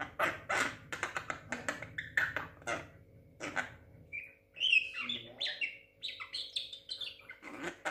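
Young Javan myna calling: a run of short, harsh, chattering speech-like notes, then, about halfway through, a stretch of higher squeaky whistles and chirps.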